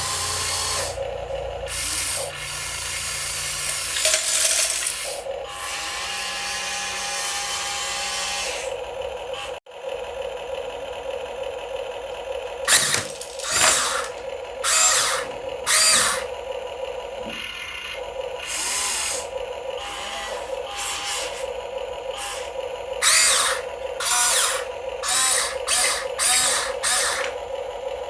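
Small electric motors and gearboxes of radio-controlled model trucks and an excavator whirring with a pulsing whine. In the second half come a string of short, loud rasping bursts, closer together near the end.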